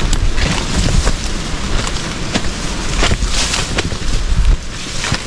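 Wind buffeting the microphone in an uneven low rumble, with scattered short rustles and knocks throughout.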